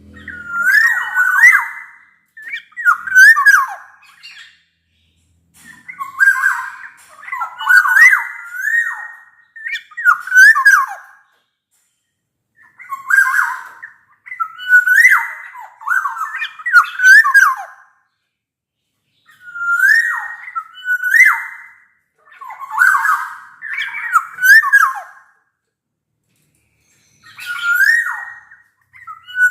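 Black-naped oriole (kepodang) singing loud fluting whistled phrases, each a quick rising-and-falling slur, repeated in short bouts with pauses of about a second between.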